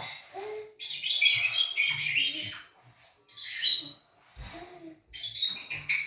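African grey parrot chick giving raspy, high chirping calls in three bouts, the first about a second long and starting about a second in, a short one in the middle, and another near the end.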